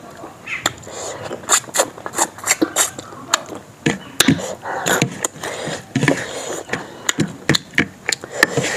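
Close-up eating sounds as rice and chicken gravy are eaten by hand: chewing, lip smacks and wet mouth clicks, coming irregularly several times a second.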